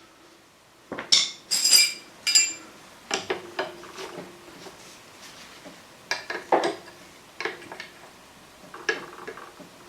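Metal hand tools and car parts clinking and knocking: a quick run of ringing metallic clinks about a second in, then single knocks every second or two.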